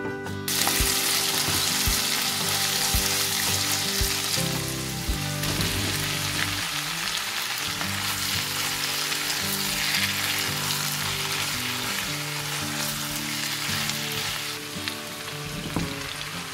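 Eggplant slices sizzling as they fry in hot vegetable fat in a non-stick pan. The sizzle starts suddenly about half a second in, over soft background guitar music.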